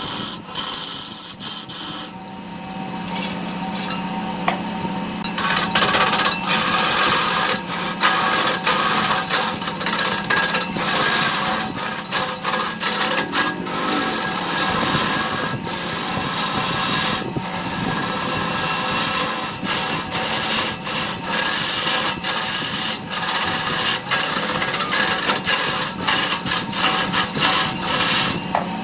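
Wood lathe running with a steady motor hum while a cutting tool scrapes into the spinning wood, the cutting noise breaking off and starting again many times.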